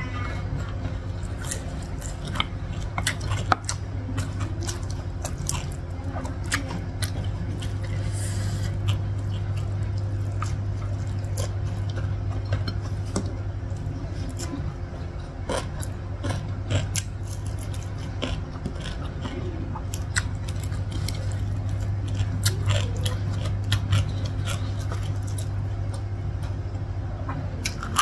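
A person chewing soft food (lontong rice cake and vegetables in peanut sauce), with scattered small wet clicks from the mouth and food, over a steady low hum.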